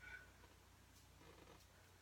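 Near silence: room tone with a low steady hum and a few faint, brief small sounds.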